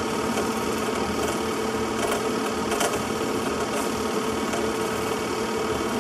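A steady mechanical whir with a constant low hum, unchanging throughout, with a couple of faint clicks.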